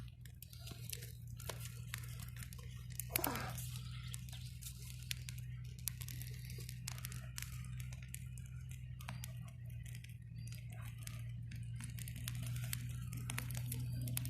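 Small crackles and snaps of twigs and brushwood as kindling is laid on a young campfire and catches, many scattered short clicks over a steady low hum. A brief gliding sound stands out about three seconds in.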